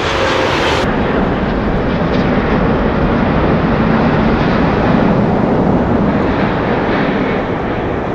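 Boeing 787-9 Dreamliner jet noise on approach, a steady rumble with a low hum that swells toward the middle and eases near the end. The audio is slowed down from about a second in, which lowers the sound.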